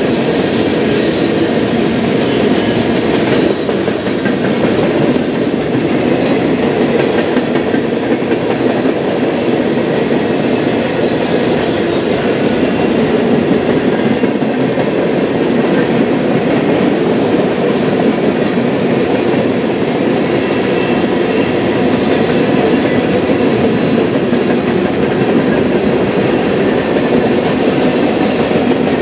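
Freight train cars rolling steadily past at close range, with a continuous rumble and wheel clatter on the rails. Some faint high squealing comes through in the first twelve seconds.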